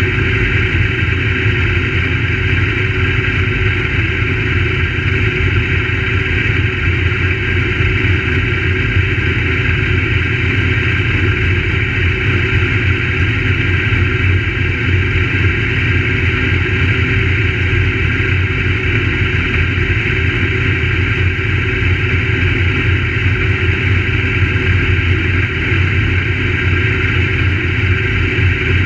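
Crate late model race car's V8 engine running at a steady speed, with no clear rises or falls in pitch.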